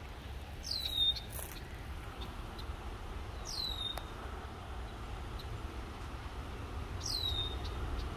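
A songbird calling: a single high whistle that slides down in pitch and levels off, about half a second long, repeated three times some three seconds apart, over a steady low rumble.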